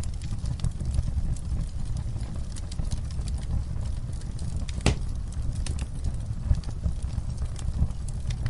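Campfire burning: a steady low rumble of the flames under scattered crackles and snaps, with one louder pop about five seconds in.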